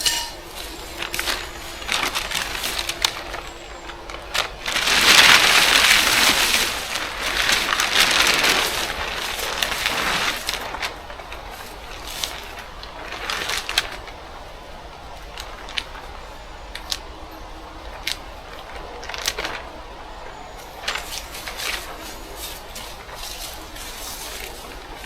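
Rustling and handling noises with scattered sharp clicks and knocks, loudest in a long rustle about five to ten seconds in.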